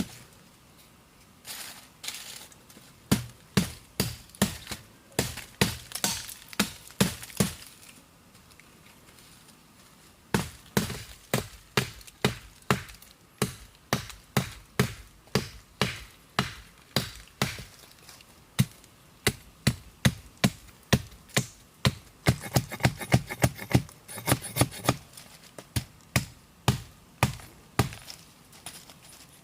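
Repeated sharp chopping strikes, about two to three a second, in runs broken by a pause near the start and another about a third of the way in.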